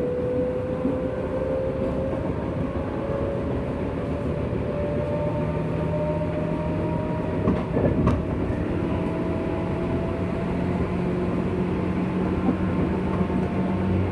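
JR West 201 series electric train running, heard inside its motor car: a steady wheel-and-rail rumble with the traction motor and gear whine rising slowly in pitch as the train gathers speed. A few knocks from the wheels over rail joints come about halfway through.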